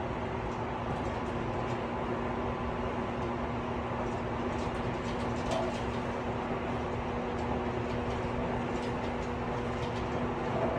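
Running noise inside a Tobu 50090 series electric train car between stations: a steady rumble of wheels on rail with an even hum and faint light rattles.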